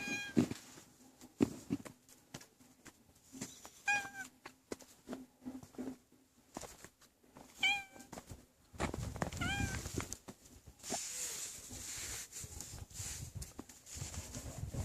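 A cat meowing four times, short calls spaced a few seconds apart, with scattered clicks and a low rumble coming in about nine seconds in.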